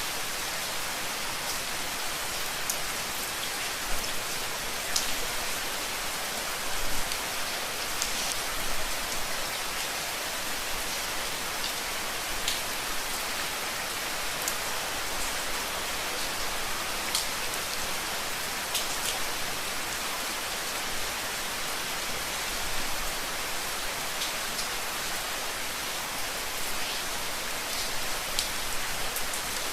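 Steady rain, an even hiss with scattered louder drops ticking on a surface.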